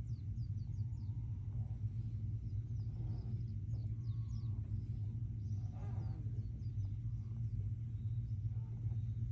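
Small birds chirping in short, high, falling notes, over a steady low rumble.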